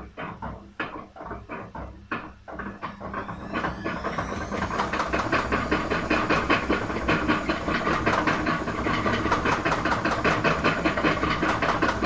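Aspes washing machine drum knocking a few times a second as it turns, then running up into its spin with a rising whine and a loud, fast, continuous rattling and banging. The noise is typical of a broken drum shaft.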